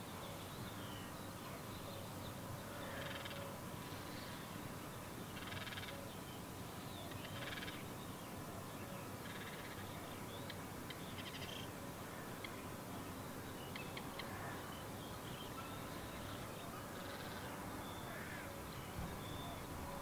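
Faint bird calls: short, scratchy notes repeated every second or two over steady background noise.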